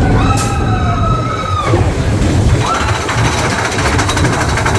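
A roller-coaster train running on its track with a steady low rumble and clatter, with a rider's long high-pitched whoop near the start and a shorter rising cry about two and a half seconds in.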